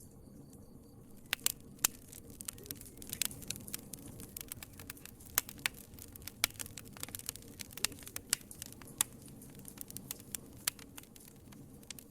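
Wood fire crackling in a fireplace: irregular sharp pops and snaps, starting about a second in and coming many times over a low, steady rustle of flame.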